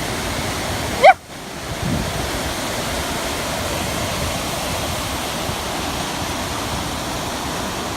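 Waterfall rushing steadily close by. About a second in, a short rising vocal call cuts through it.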